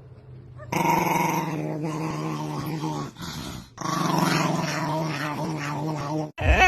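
A dog growling: two long, loud growls with a brief break between them, starting about a second in. Right at the end it cuts off and a different, wavering higher-pitched cry begins.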